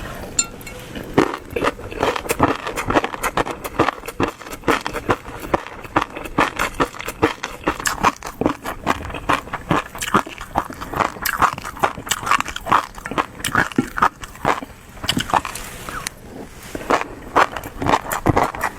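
Close-miked eating sounds: a person chewing and smacking food in a rapid, unbroken run of short clicks and mouth noises.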